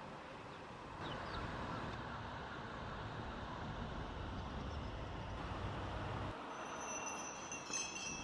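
Outdoor ambience: a low rumble that swells about a second in and cuts off just after six seconds, with a few faint high bird chirps.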